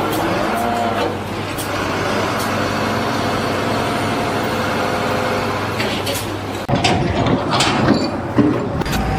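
A large engine running steadily, with a sudden change in the sound about two-thirds of the way through, followed by a few sharp knocks.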